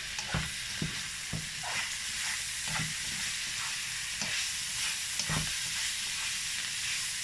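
Minced beef and mixed vegetables sizzling in a frying pan while a spatula stirs them, with a steady hiss and irregular scrapes and light knocks of the spatula against the pan.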